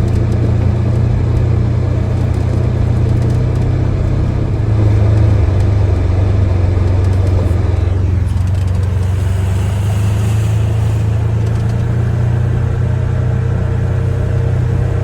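Polaris Ranger 1000 XP side-by-side's twin-cylinder engine running steadily under way, a low even drone with tyre and driveline noise over it. The higher noise thins out about eight seconds in while the engine drone carries on.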